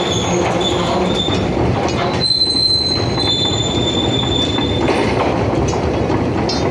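Train running past at a railway station, its wheels and carriages rumbling steadily, with a high-pitched wheel squeal from about two seconds in until about five seconds.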